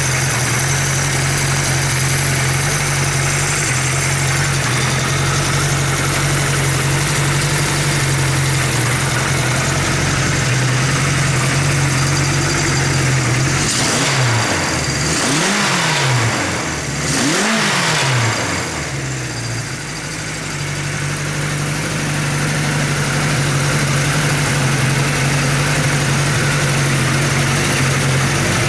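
Kawasaki Z1 Z900's air-cooled four-cylinder engine idling, blipped twice about halfway through with two quick revs that rise and fall in pitch, then settling back to a steady idle.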